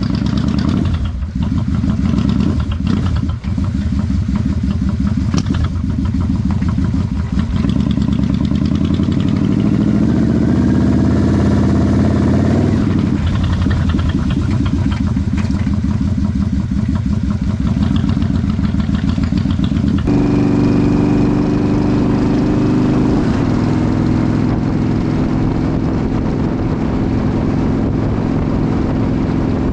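Motorcycle engine running under way: its pitch climbs for a few seconds, then drops at a gear change. About two-thirds of the way in it cuts to a steadier engine note at a fairly constant pitch.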